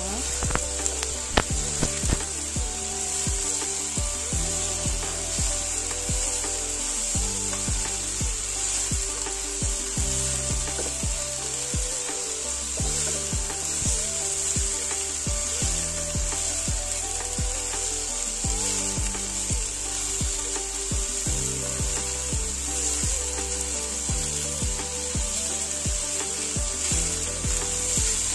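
Broccoli and button mushrooms sizzling in a hot, oiled non-stick karahi, stirred with a plastic spatula that scrapes and knocks against the pan again and again. Background music plays underneath.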